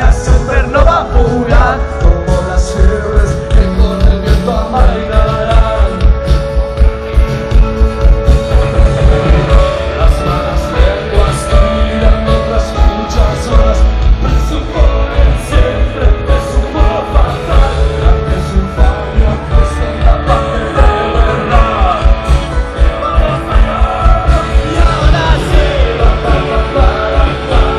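Rock band playing live with a lead singer, with a heavy steady beat in the bass, recorded loud on a phone.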